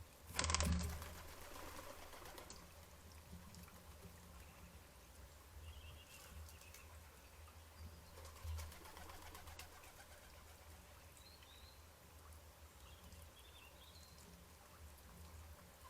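A sudden loud burst of noise about half a second in that fades over a second or two, then a few faint, high, short bird chirps now and then over a low steady rumble.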